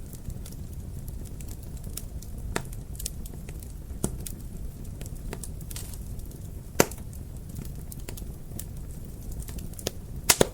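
Wood fire crackling in a fireplace: a steady low rumble of the flames with scattered sharp pops, the loudest about seven seconds in and a quick cluster of pops near the end.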